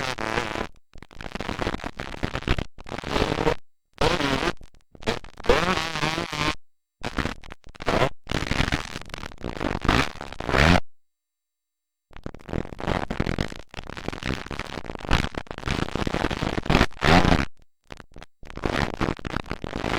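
Motocross dirt bike engines revving up and down, loud and distorted on the camcorder microphone, with the sound cutting out to dead silence again and again, once for about a second near the middle.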